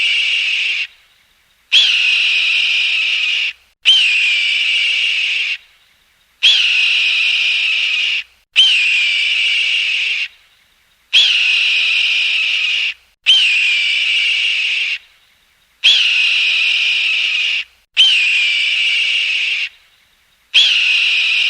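A high, shrill animal call, each about two seconds long with a quick pitch flick at its start, repeated over and over about every two seconds: one recording played in a loop.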